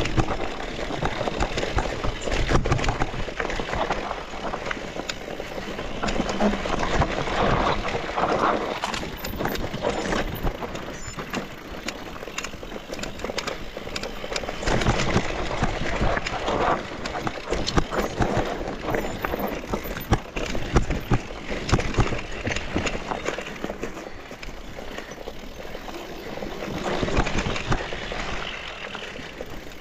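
Mountain bike riding down a rough dirt trail: tyres rolling and skidding over the ground, with frequent knocks and rattles from the bike over bumps.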